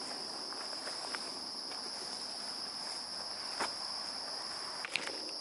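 Steady high-pitched chorus of summer insects, an unbroken even drone, with a few faint snaps of footsteps in brush.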